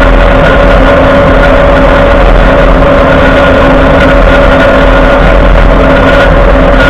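Loud, steady underbody noise of a Ford F-150 being driven, heard at the front driver's-side axle: road and drivetrain rumble with a constant grinding whine from the front axle shaft, which keeps spinning with the wheel in 2WD. The dealership takes this for a locked-up wheel hub (integrated wheel end failure).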